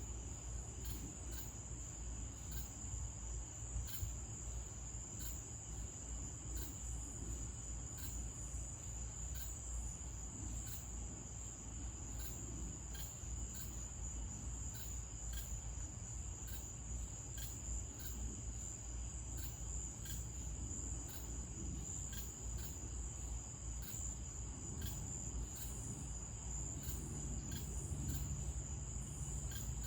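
Night insects, likely crickets, trilling in one steady high-pitched drone, with faint short ticks repeating about once or twice a second and a low background rumble.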